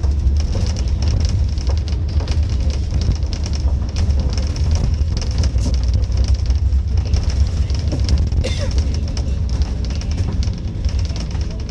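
Scania K310UD double-decker bus on the move, heard from inside: a steady low engine and drivetrain rumble with constant rattling and knocking of the body and fittings.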